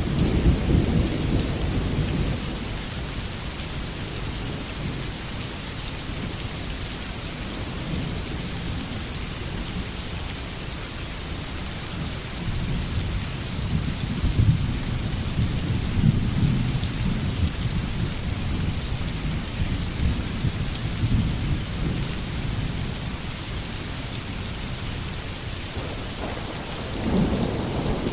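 Steady heavy rain hiss with rolling thunder. A low rumble at the start fades within about two seconds, a longer rumble swells through the middle, and another begins near the end.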